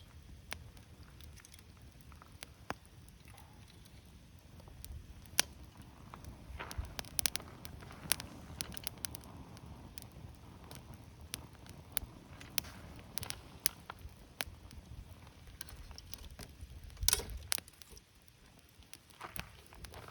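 Wood campfire crackling, with irregular sharp pops and snaps over a low steady rumble; a brief cluster of louder snaps comes near the end.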